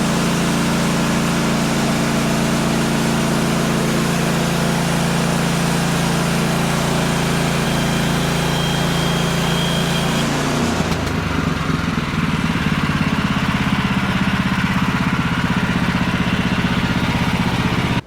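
Gasoline engine of a Woodland Mills HM126 portable bandsaw mill running steadily with a high hiss over it, as the band blade cuts through a utility pole. About ten seconds in the hiss fades and the engine note drops and turns more pulsing.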